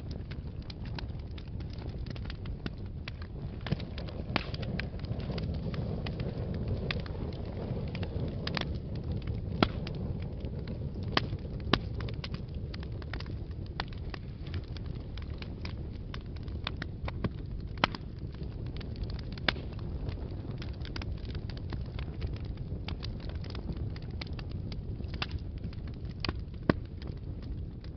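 Fire burning in a fireplace: a steady low rumble of flames with frequent sharp crackles and pops scattered irregularly throughout, a few of them louder than the rest.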